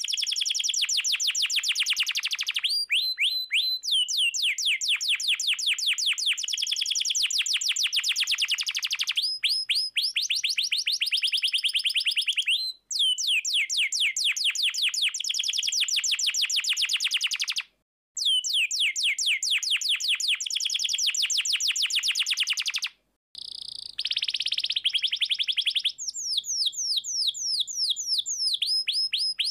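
Domestic canary singing long, rapid rolling trills, each a fast run of identical sweeping notes, broken by a few short pauses.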